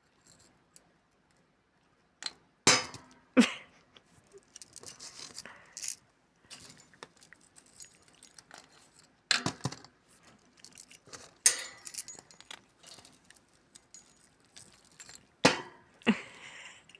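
Intermittent sharp knocks and clinks, several loud ones a few seconds apart, with light rattling and scraping between them, from a parrot handling and dropping a cuttlefish bone and toys.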